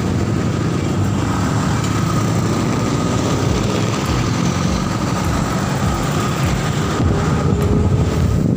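Motorcycle on the move: its engine running steadily under a heavy rush of road and wind noise on the microphone, getting a little louder near the end.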